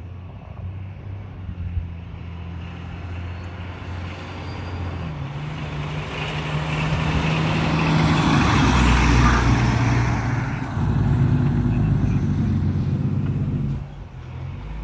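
Engine of a 2007 Seagrave Marauder fire engine running as the truck pulls out and moves off, growing steadily louder to a peak about nine seconds in, then dropping off sharply about a second before the end.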